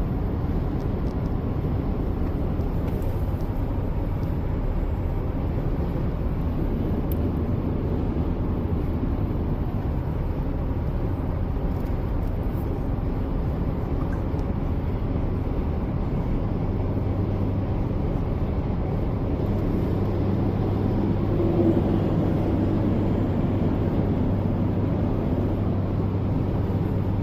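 Steady road and engine noise of a vehicle heard from inside the cabin while driving; the low engine hum grows stronger a little past halfway through.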